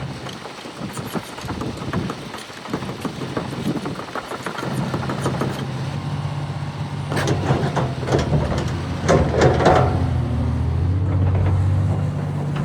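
Komatsu PC490LC-11 excavator's diesel engine running, its note growing stronger about four seconds in as the machine is worked, with a run of metallic clanks from the machine about seven to ten seconds in.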